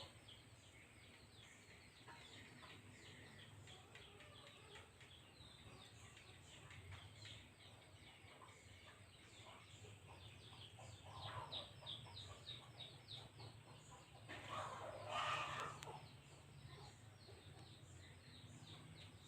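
Faint background birdsong: small birds chirping rapidly throughout, with faint chicken clucking that is loudest around 11 seconds in and again near 15 seconds.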